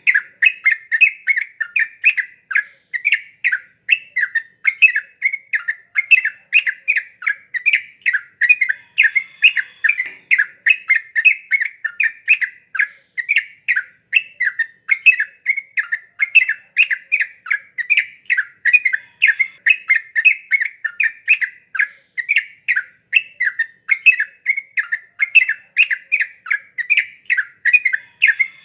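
Yellow-vented bulbul (trucuk) singing in full voice: an unbroken run of short, bubbly chattering notes, about three a second.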